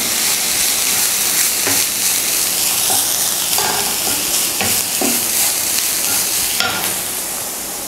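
Banana flower stir-fry sizzling in a non-stick pan while a wooden spatula stirs and scrapes through it, with a steady hiss and a few short scrapes. The hiss comes from the banana flower steaming in its own released water, with no water added.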